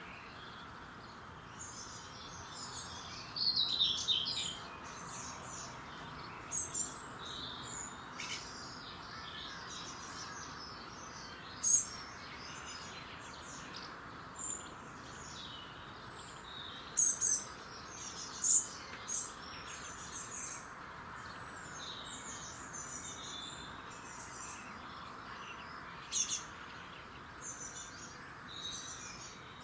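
Several small songbirds singing and chirping in short phrases and trills over a faint steady hiss, with a few sharp louder calls in the middle.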